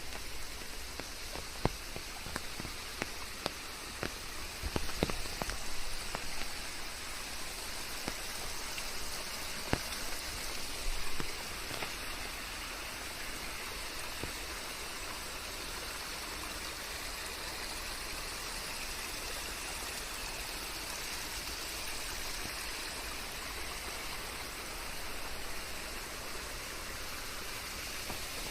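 Steady rain falling, with scattered close drops tapping in the first twelve seconds or so, over an even hiss of added white noise.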